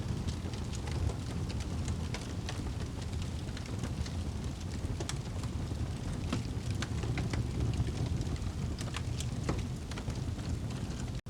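Wood fire burning in a fireplace: a steady low rumble of flames with frequent sharp crackles and pops. The sound cuts out for an instant near the end.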